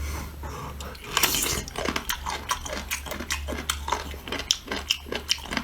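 Close-up eating sounds: an irregular run of small wet clicks and crackles from biting into and handling sea cucumber, with light clinks of tableware.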